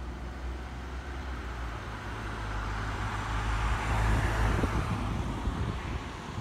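Electric train running on the line: a steady rumble of wheels on rail. It swells to its loudest about four seconds in, with a few short clacks around the peak, then eases off.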